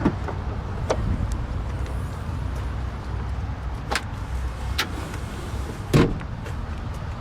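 A few sharp clicks and knocks of a car's trunk being handled, the loudest about six seconds in, over a steady low rumble.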